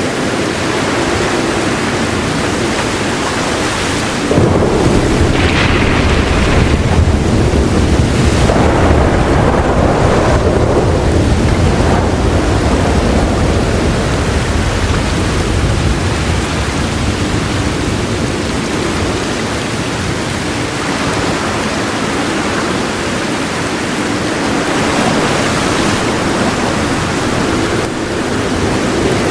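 Heavy rain falling steadily, with a deep roll of thunder that comes in suddenly about four seconds in and rumbles on for several seconds before fading away.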